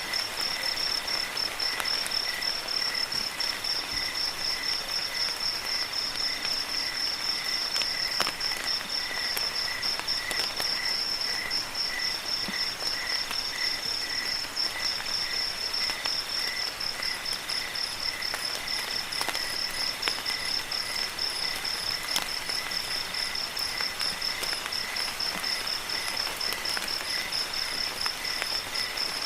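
Crickets chirping in a steady, fast pulsing trill, with a second, lower insect pulsing alongside and a fainter, higher-pitched one joining about halfway through, over a soft hiss of rain with scattered drip ticks.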